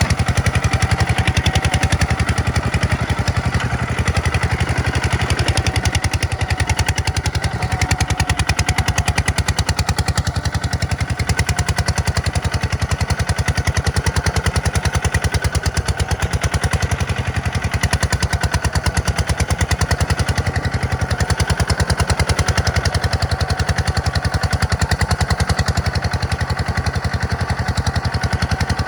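Tractor's diesel engine running steadily under work, its firing coming as a fast, even chug.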